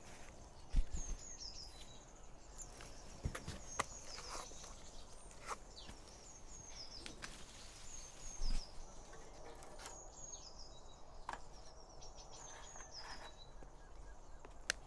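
A bird singing over and over, each phrase a few high notes stepping downward, repeated every second or two. A few thumps and rustles of someone moving on the ground, the loudest about a second in.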